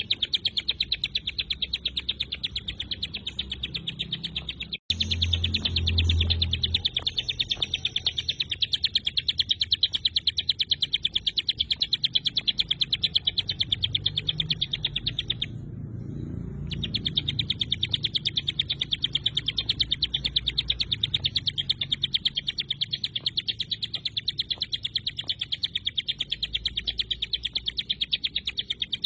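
Ciblek gunung (a prinia) singing its 'tembakan' song: a fast, unbroken run of sharp high repeated notes, cutting out for an instant just before five seconds in and again briefly around the middle. A low rumble sits beneath it.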